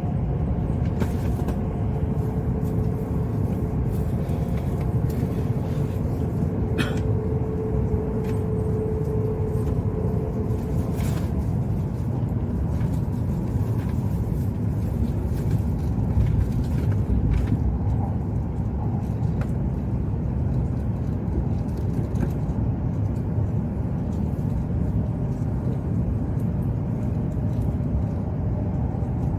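Cabin noise of an E7 series shinkansen running at speed: a steady low rumble, with a faint steady whine during the first ten seconds or so.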